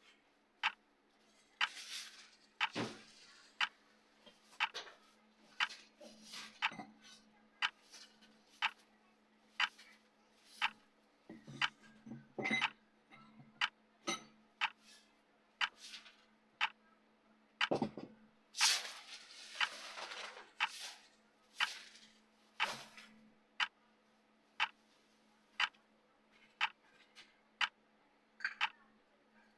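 Timer clock ticking, about one tick a second, over a faint steady hum. A louder rush of noise comes about two-thirds of the way in.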